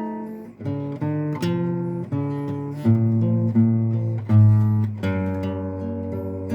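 Acoustic guitar strumming chords, struck roughly once or twice a second with the chords changing: an instrumental introduction with no singing yet.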